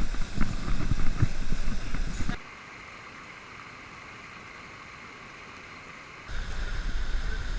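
Steady rush of water at a river waterfall. For about the first two seconds and again near the end it is overlaid by a loud low rumble with scattered knocks; in the middle it is a quieter, even rush that starts and stops abruptly.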